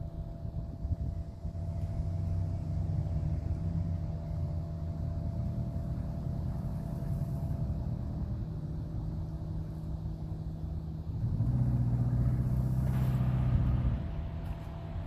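A vehicle engine running steadily with a low hum. It grows louder about eleven seconds in for a few seconds, then eases back.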